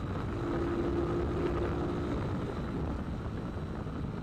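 Motorcycle on the move: steady engine and road rumble, with a faint held hum that fades about two seconds in.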